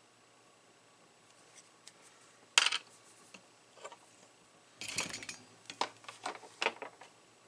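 Small metal hand tools working at a bench: a sharp snip or click about two and a half seconds in, then a quick cluster of clicks around five seconds and several more near the end.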